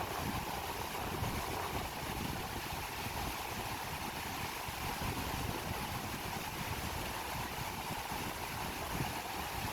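Steady rush of a swollen monsoon-season river flowing fast, a continuous noise with no breaks.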